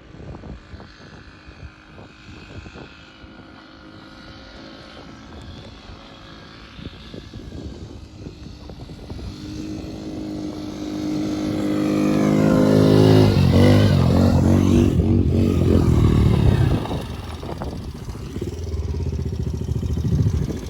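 Small motorcycle engine running. It grows louder over several seconds, is loudest through the middle as its pitch shifts, and then eases off near the end.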